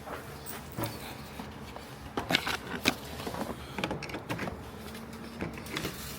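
Scattered clicks and knocks of metal jump-box clamps being handled and put back on a car battery, the two loudest about half a second apart a couple of seconds in.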